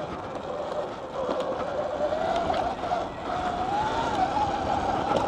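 Dirt bike being ridden on a dirt track: a single whining tone from its drivetrain rises and falls with the throttle over wind and track noise, with a few scattered knocks.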